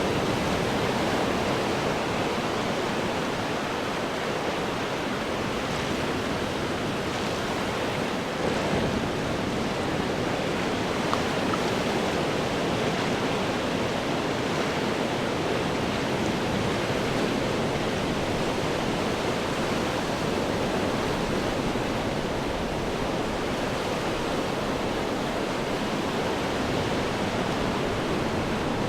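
Ocean waves breaking and washing over rocks, a continuous rushing surf with gentle swells in loudness.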